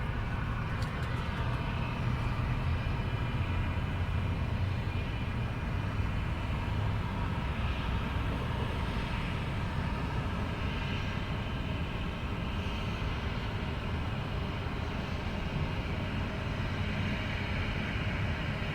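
Jet airliner engines at takeoff power, a steady low rumble heard from the ground, most likely a Southwest Airlines Boeing 737 on its takeoff run.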